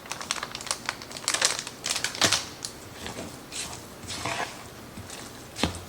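A spoon stirring and scraping thick cornbread batter in a mixing bowl: irregular clicks and scrapes, the sharpest about two seconds in and near the end.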